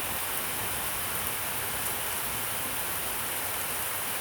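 Heavy rain falling hard onto surfaces, a steady even hiss with faint scattered drop ticks.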